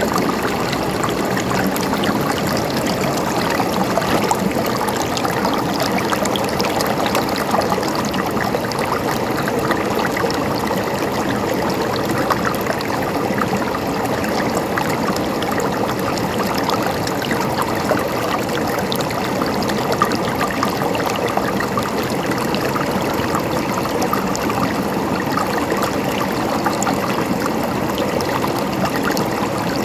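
Mountain stream of water running and gurgling over rocks, steady and unbroken.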